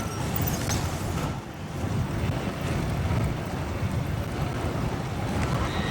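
Steady low rumble of a motorcycle and surrounding road traffic, with wind noise on the microphone. It dips briefly about a second and a half in.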